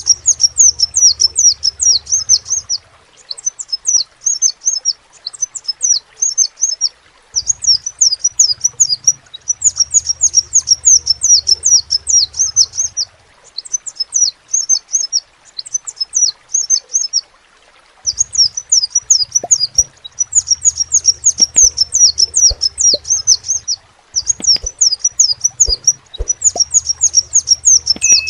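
Crimson sunbird (sepah raja) singing: rapid strings of high, sharp chirping notes in phrases of a few seconds, broken by short pauses.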